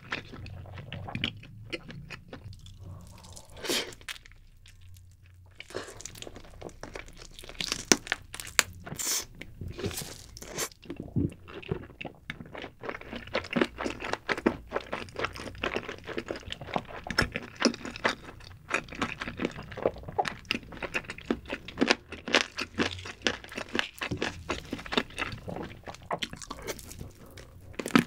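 Chewing and biting of a glazed roast chicken drumstick coated in cheese sauce: a dense run of sharp clicks and wet smacks, quieter for a moment around four to six seconds in.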